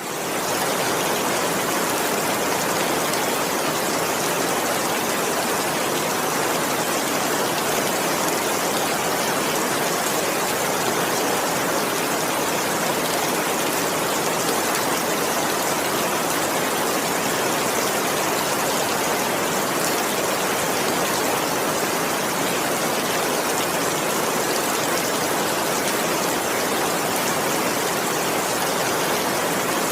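Steady rain, a dense, even hiss with no single drops or other events standing out. It rises quickly out of a brief silence at the very start.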